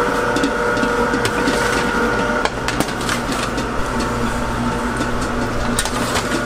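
A small motorized machine running with a steady whine, its pitch dropping to a lower hum about two and a half seconds in, with scattered clicks and knocks throughout.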